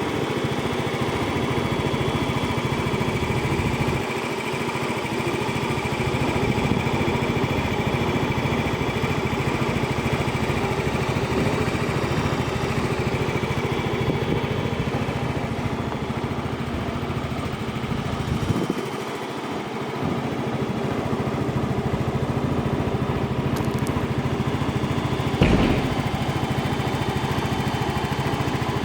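Yamaha XC115 Delight scooter's small single-cylinder engine idling steadily. It eases off briefly about two-thirds of the way in, and a short knock comes near the end.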